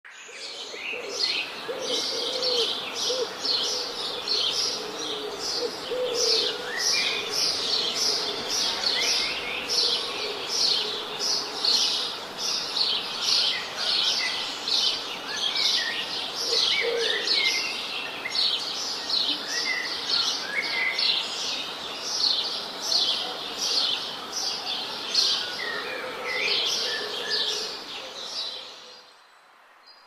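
Birds chirping: a fast, steady run of high chirps, about two to three a second, with other calls scattered among them, stopping about a second before the end.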